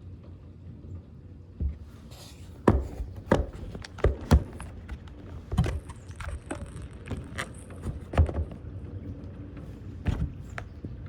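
A series of irregular knocks and thumps, about a dozen over several seconds, some sharp and loud, over a low background rumble.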